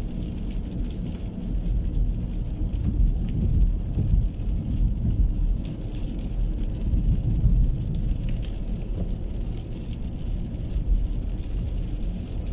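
Steady rain falling, with scattered drops ticking, over a constant low rumble.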